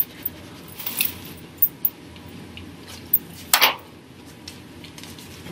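Chewing a bite of toasted egg sandwich in a quiet room, with a few small clicks and clinks and one louder short sound about three and a half seconds in.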